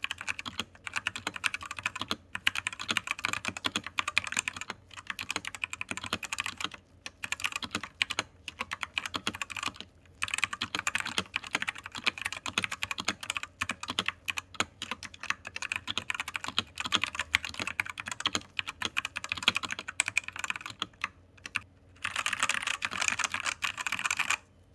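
Typing on a Royal Kludge RK84 mechanical keyboard with RK Red linear switches: rapid keystroke clicks in runs, broken by a few short pauses.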